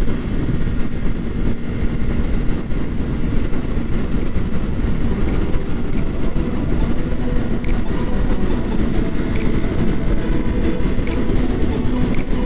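Kawasaki Ninja 400's parallel-twin engine holding a steady note at cruising speed under a heavy rush of wind and road rumble on the helmet camera, with faint light ticks every second or two from about four seconds in.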